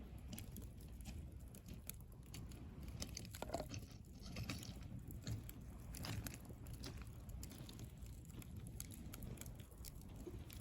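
Driftwood campfire crackling, with irregular small pops and snaps over a steady low rumble.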